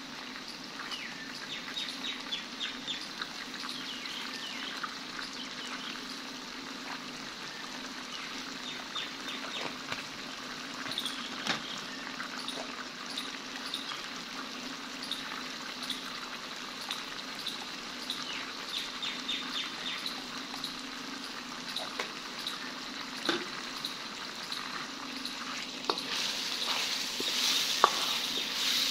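Chicken frying in a steel wok over a gas burner, a steady sizzle dotted with small crackles and pops. The sizzle grows louder over the last few seconds as the pieces are stirred with a spatula.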